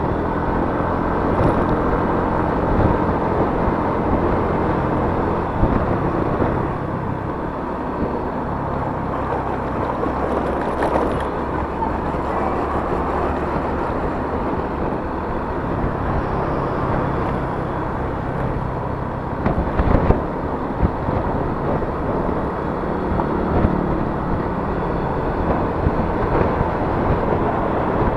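Yamaha Mio S 125 scooter's single-cylinder four-stroke engine running steadily while riding, with road noise. A short loud thump about two-thirds of the way through.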